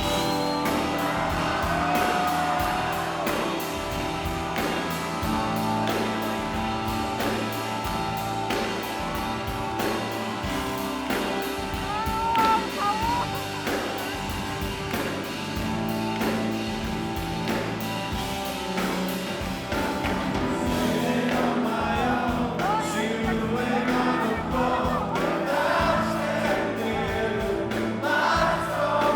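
A live rock band plays to a steady beat with sustained chords, while voices sing over it, sounding like a crowd singing along.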